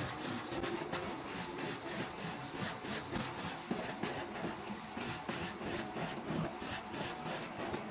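Vacuum cleaner running, its nozzle moved across stair carpet, with a steady motor hum and many short clicks and rubbing sounds.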